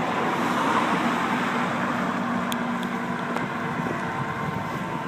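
Road traffic passing on a bridge: a constant rushing noise, with one vehicle's steady engine hum from the start to about four seconds in, and a few faint clicks in the middle.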